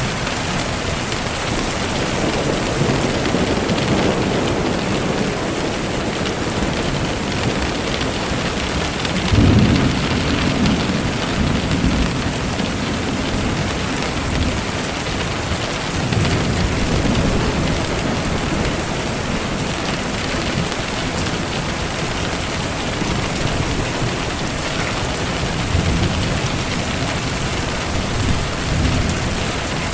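Steady rain falling, with low rolls of thunder rumbling under it, the strongest about a third of the way in and weaker ones later.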